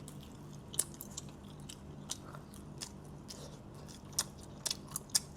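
A person biting into and chewing a mochi cheese ball, with irregular short mouth clicks and crunches.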